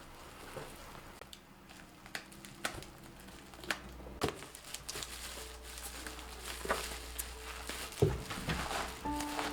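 A series of light taps and clicks with some rustling, as of small objects being handled; a few music notes begin near the end.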